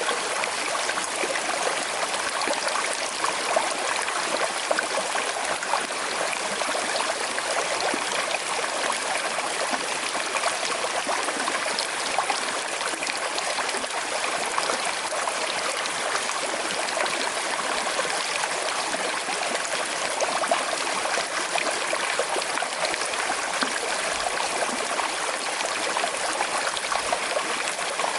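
A small river with a slight current flowing steadily, water trickling and babbling over stones.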